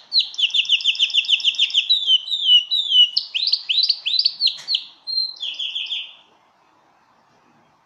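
Domestic canary singing: fast trills of repeated high notes that switch to a new note pattern every second or so, stopping about six seconds in.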